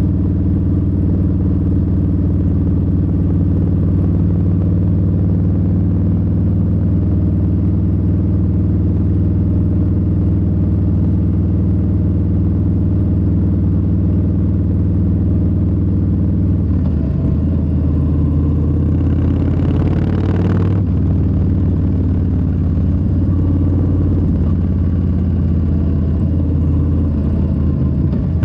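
Harley-Davidson Low Rider S's Milwaukee-Eight 117 V-twin running steadily under way at cruising speed. About two-thirds of the way in the engine note drops and changes, and a brief rush of noise passes a couple of seconds later.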